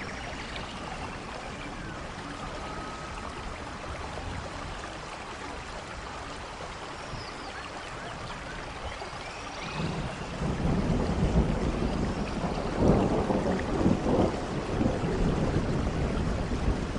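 Steady soft rain falling, with a low rumble of thunder building from about ten seconds in and rolling on.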